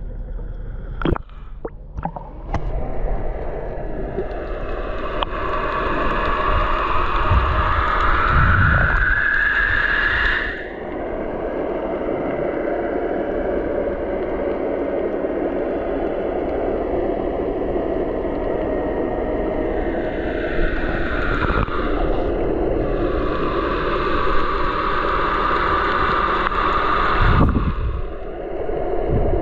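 Continuous rush of water and wind noise from a boat under way, with a few sharp clicks in the first seconds and a whine that rises in pitch before breaking off about ten seconds in.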